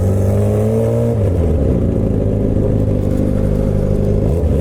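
Suzuki GSX-R600 (K7) inline-four through a straight-piped M4 exhaust with no catalytic converter, pulling with slowly rising revs. About a second in, the revs drop sharply, and the bike runs on at lower revs.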